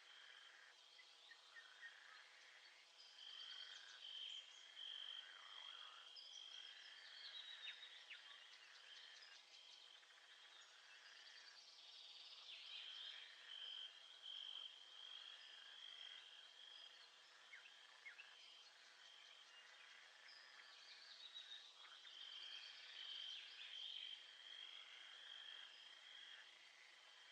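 Faint nature ambience: a high, pulsing trill held on one pitch, which swells and fades in three waves, with brief bird chirps over a soft background hiss.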